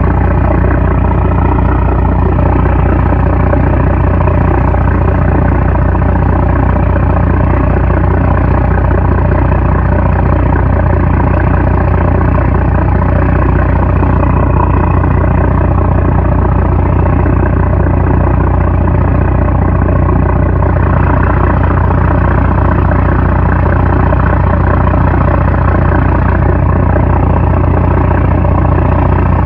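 Diesel engine of a 750-horsepower trawler running steadily, a loud, constant low drone with a steady hum above it.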